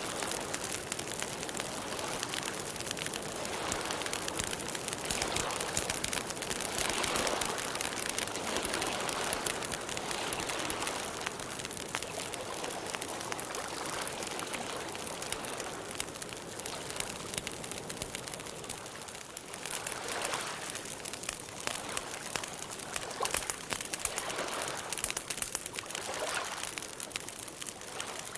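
Water trickling and splashing continuously, as in a small stream, with a shifting, rippling texture.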